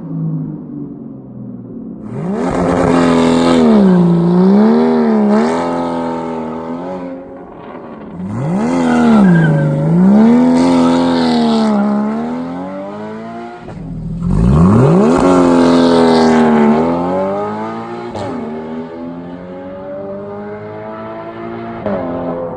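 Straight-piped 2.7-litre flat-six of a 2013 Porsche Boxster 981 revving in three long bursts, its pitch swinging up and down, dropping lower and quieter between the bursts.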